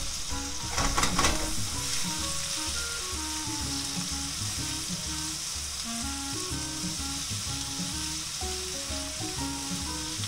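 Pork belly and cucumber sizzling in an oiled frying pan while being stirred with chopsticks: a steady frying hiss, with a brief louder burst of noise about a second in.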